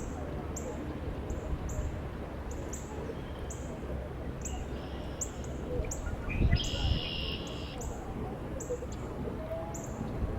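Songbirds calling over wind. One bird gives a short, high, falling chirp over and over, about twice a second. A second bird adds a buzzy trill about halfway through, over a steady low wind rumble that gusts a little near the middle.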